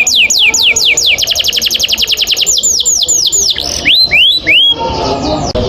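Domestic canary singing a long rolling trill of rapid, high, falling notes, about a dozen a second, broken about four seconds in by a few slower upward-sweeping notes before the trilling resumes.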